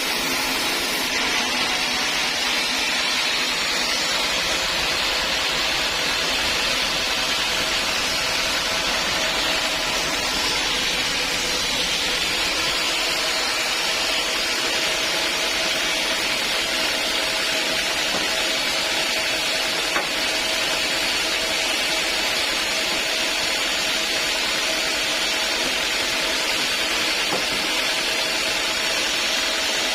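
Sawmill saw running steadily: a continuous hiss with a faint steady hum underneath, and a single click about twenty seconds in.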